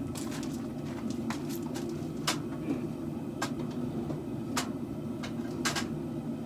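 Sharp light metal taps or clinks, six in all at about one a second, from a hand tool working the steel of a katana blade, over a steady low hum.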